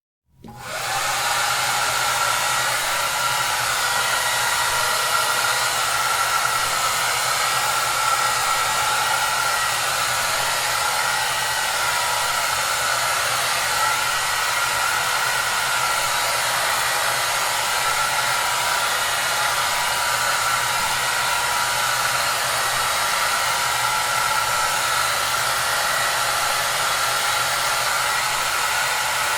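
Hair dryer running steadily. It starts abruptly out of silence about half a second in, then holds as an even rushing hiss with a faint whine in it.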